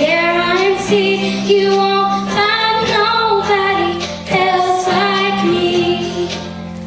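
A young girl singing the closing phrases of a pop song over a backing track, holding several long notes. The music fades down near the end.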